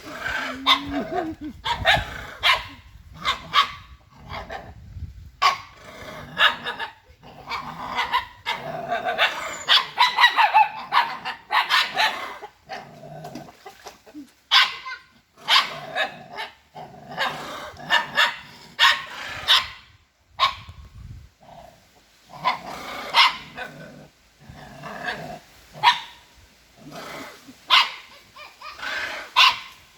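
A dog barking over and over in short, irregular bursts, with brief pauses between them.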